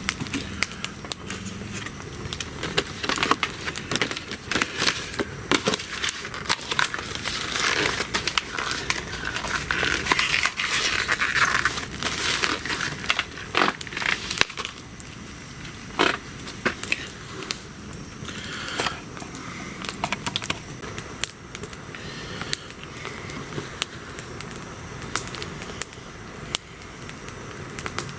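Wood fire crackling with irregular sharp pops, and a louder stretch of hissing crackle about eight to twelve seconds in.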